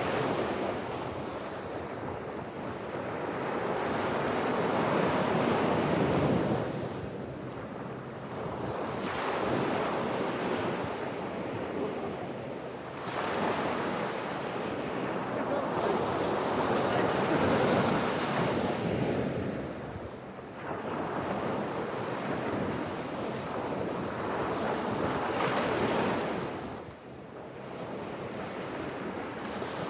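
Pacific Ocean surf, waves breaking and washing up the shore in slow swells. The rush builds and fades every several seconds, about four or five times.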